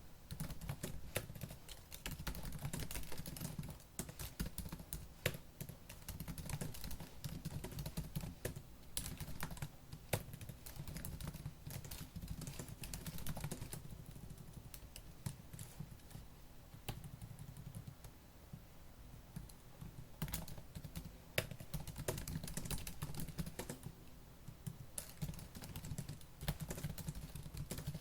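Fast typing on a laptop keyboard: a dense run of key clicks, thinning to sparser taps for a few seconds about halfway through and again near the end.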